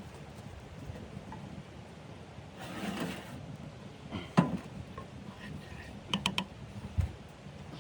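Handling sounds: a brief rustle, then a sharp knock, three quick clicks and a low thump, over a steady low wind noise.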